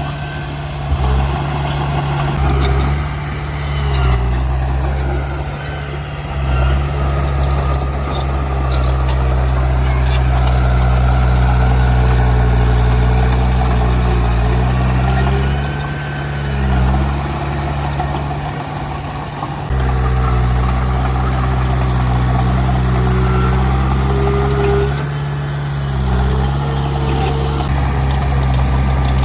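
Heavy diesel engine of earthmoving machinery running steadily. Its pitch dips and recovers several times as it takes load.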